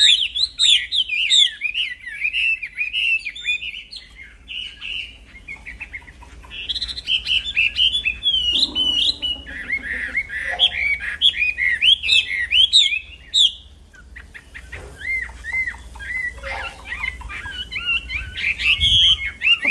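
Wambi songbird singing continuously in fast, varied runs of sharp bending chirps and whistles. The song thins out briefly twice.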